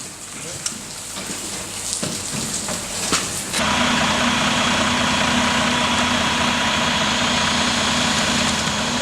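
Scattered clicks and knocks over background noise, then, about three and a half seconds in, a sudden switch to a vehicle engine idling with a steady hum.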